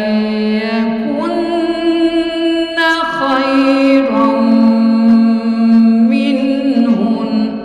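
A woman reciting the Quran in a slow, melodic chant (tajweed), holding long drawn-out notes that step up and down in pitch every second or two.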